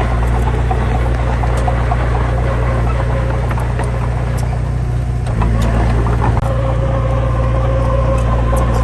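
Heavy diesel engine running steadily at a low, droning note, which shifts slightly about five seconds in, with faint clicks and rattles over it.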